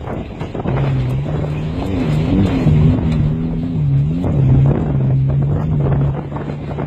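Race car engine running steadily, its pitch wavering up and down for a couple of seconds around the middle.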